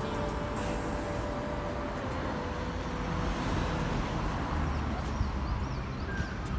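Steady road traffic noise, a continuous rumble and hiss.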